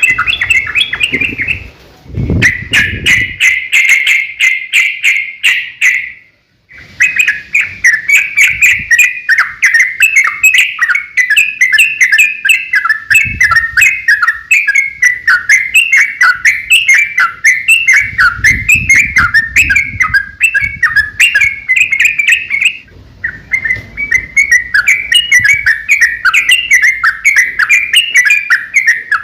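Yellow-vented bulbul (trucukan) singing a long, fast, chattering song, the 'ropel panjang' used to provoke other trucuk into answering. The song breaks off briefly just after six seconds and dips again near the end.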